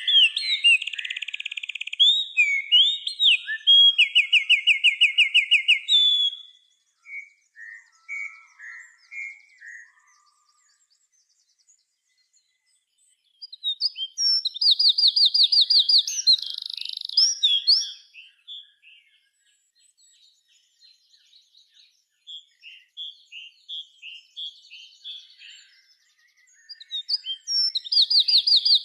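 A songbird singing in loud bouts of rapid trills and chirps, each about four to six seconds long, about a quarter-minute apart, with softer scattered notes and short pauses between bouts.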